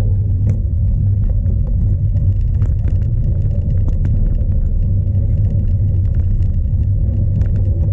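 Strong wind buffeting a bike-mounted action camera's microphone: a loud, steady low rumble. Over it come frequent short clicks and rattles from the cyclocross bike jolting over rough ground.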